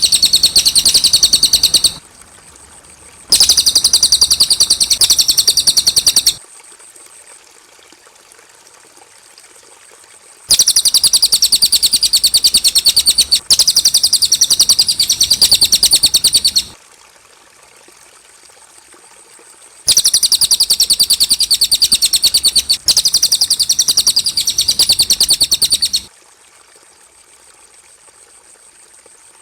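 Cililin bird singing: four bursts of fast, rapidly repeated high chirping notes, each lasting two to six seconds, separated by pauses of a few seconds.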